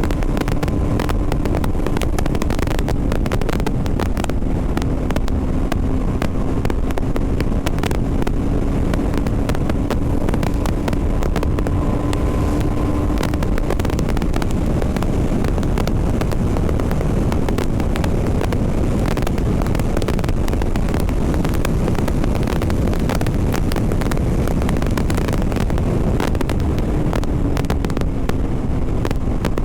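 BMW G 310 RR's single-cylinder engine running at a steady cruise under heavy wind noise on the helmet microphone. The engine's steady note fades about halfway through and comes back near the end.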